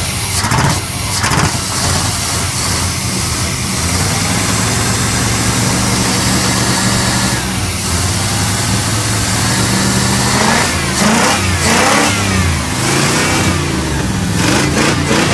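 1990 GMC 2500 truck engine idling steadily, then revved up and down several times in the last five seconds.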